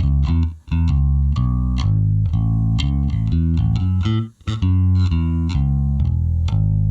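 Solo electric bass guitar playing a run of plucked notes, with two short breaks in the line, about half a second in and again a little past four seconds.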